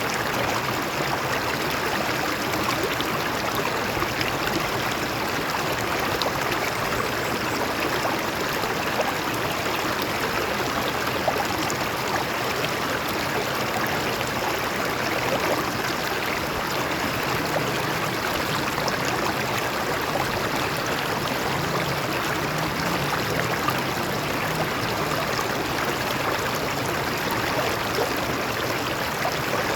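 Stream water flowing and splashing over rocks, a steady rushing with small gurgles and trickles.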